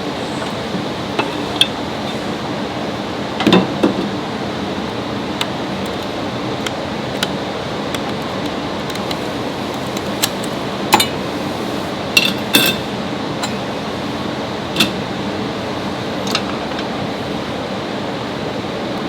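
Scattered metallic clinks and taps of hand tools against metal car parts, a dozen or so irregular strikes, over a steady mechanical hum.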